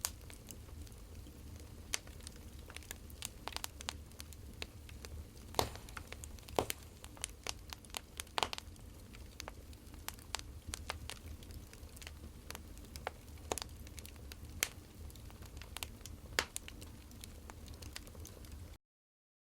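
Wood fire crackling: irregular sharp pops and snaps over a low steady rumble. It cuts off abruptly near the end.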